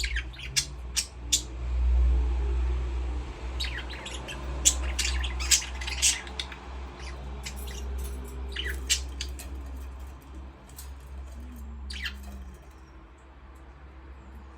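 Budgerigars chirping in short, sharp calls that come in clusters: several near the start, a busy run in the middle, and one more near the end, over a steady low rumble.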